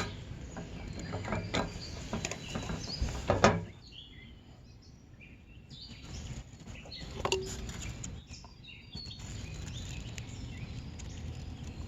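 Outdoor background with scattered clicks and knocks of handling during the first few seconds. Faint bird chirps follow over a steady noise.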